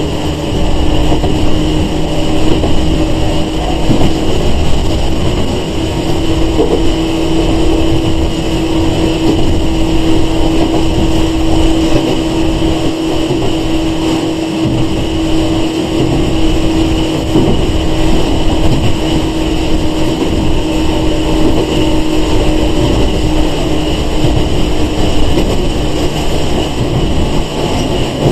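Sangi Railway 101 series electric train (ex-Seibu 401 series) running between stations, heard from inside the passenger car: a steady rumble of wheels and running gear with a steady whine that fades near the end.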